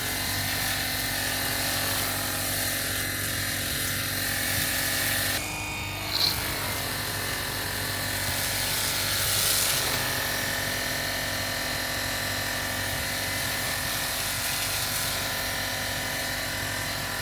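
Portable battery-powered pressure washer running steadily as it sprays the solar panels: a small electric pump motor humming under the hiss of the water jet. The sound briefly changes about five and a half seconds in, with a click, then carries on.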